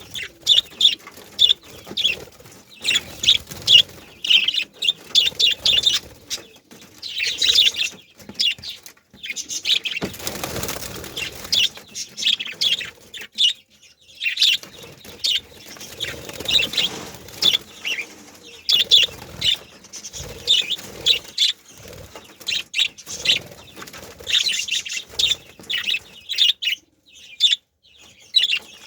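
A group of male budgerigars chirping and chattering, with many rapid short high chirps in clusters and brief pauses.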